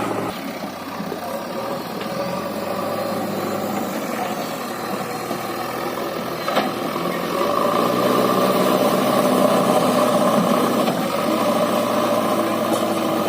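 JCB backhoe loader's diesel engine running steadily, getting louder about halfway through, with a single sharp knock shortly before it picks up.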